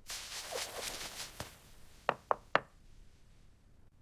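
Dishwashing sounds: a faint hiss through the first two seconds, then three quick knocks about a quarter second apart.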